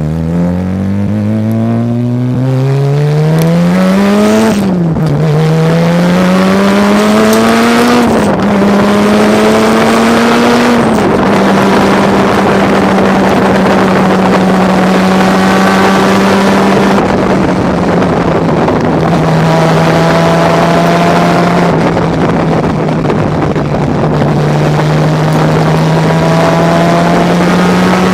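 Mazda RX-7 race car's rotary engine under hard acceleration, its note climbing through the gears with quick upshifts about five and eight seconds in. After that it holds a steady high note, easing down slightly twice and starting to climb again near the end.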